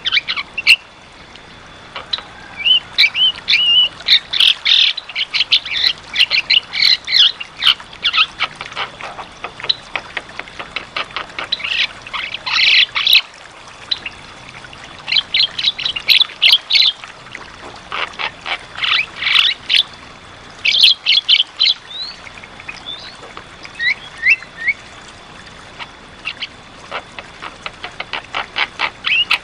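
Javan myna giving loud, harsh chirps and whistles in repeated bursts, with a fast run of clicks near the end.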